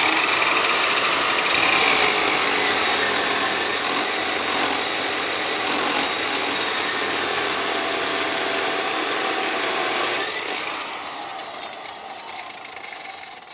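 Chainsaw cutting through a length of timber, a steady loud saw noise that fades over the last few seconds as the cut ends.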